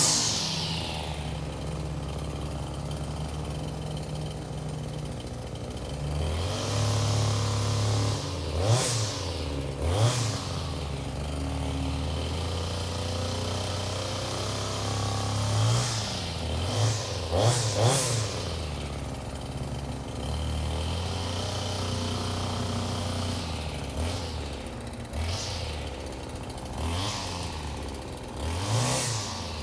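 Small two-stroke engine dropping from a high rev to an idle, then idling with a series of short throttle blips.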